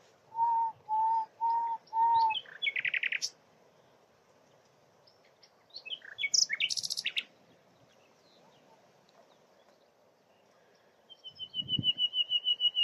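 Common nightingale singing: four slow, separate pure whistles, then a fast buzzy rattle; a varied phrase follows a few seconds later, and a quick run of repeated high notes near the end. A short low thud about twelve seconds in.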